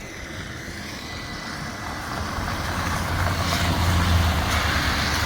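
A heavy road vehicle passing by: a low engine rumble with tyre and road noise that builds steadily, is loudest about four seconds in and eases slightly near the end.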